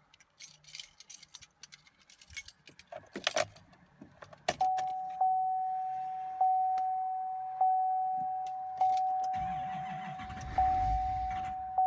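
Keys jangling and a few clicks, then the 2015 GMC Sierra's cabin warning chime dinging steadily, about once every second, as the key is turned on before the cold start. A low rumble comes in briefly near the end.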